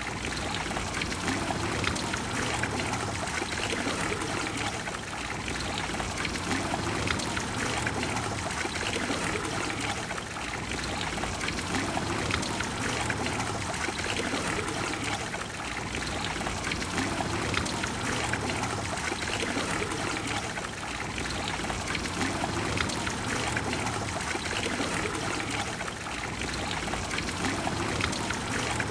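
Water of the Trevi Fountain pouring and splashing into its basin, a steady rush of falling water.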